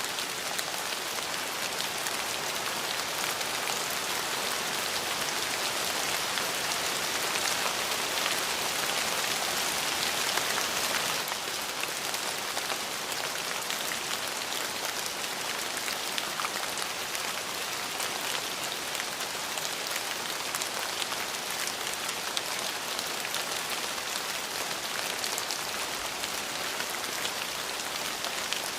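Steady rain falling, an even patter of drops hitting a surface, growing a little heavier for a few seconds near the middle before easing back.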